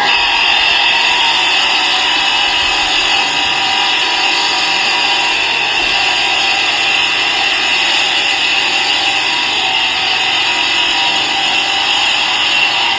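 Steady machine noise from a workshop power tool running continuously, with a high hiss and a few faint steady tones.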